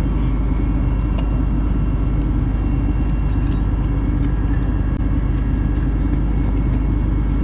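Heavy tow truck's diesel engine running steadily at a constant speed during a winching recovery, with a few faint light clicks over it.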